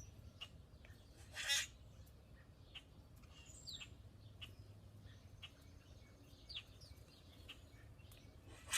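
Wild birds around a feeder: one short harsh call about a second and a half in, then scattered faint chirps and clicks, including a couple of quick downward-sliding chirps.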